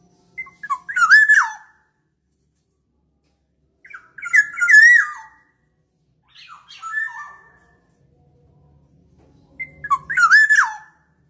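Black-naped oriole calls used as a lure: four whistled, slurred phrases with a harsh edge, each about a second long and a couple of seconds apart.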